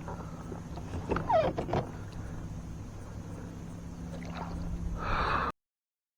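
Water gurgling and lapping at a kayak over a low steady hum, with a brief louder gurgle about a second in and a short rush of noise just before the sound cuts off abruptly.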